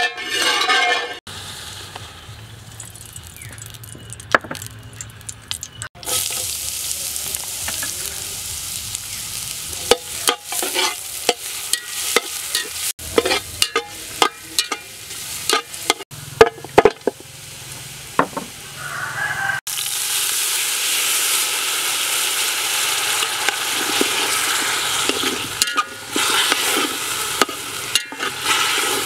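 Chopped garlic sizzling in hot oil in a steel pot, with a metal spatula scraping and clacking against the pot as it is stirred. The sizzle gets louder and steadier about two-thirds of the way in.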